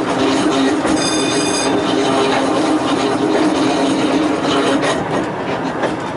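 Volks Electric Railway car running along its narrow-gauge track, with a steady hum and rumble and a brief high squeal about a second in.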